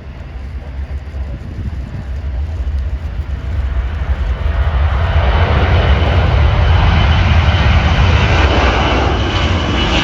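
Aircraft engine noise, a deep rumble with a rushing roar that grows louder over the first half and then stays loud.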